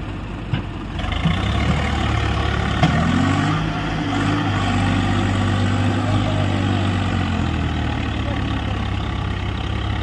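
Heavy vehicle's diesel engine running, louder from about a second in, its pitch rising and falling a little a few seconds later.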